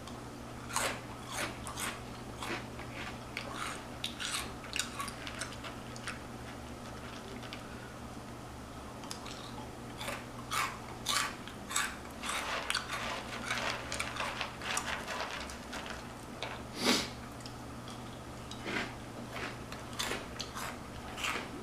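Close-up crunching and chewing of Flaming Hot Cheetos: irregular sharp crunches, thickest from about ten seconds in, over a faint steady low hum.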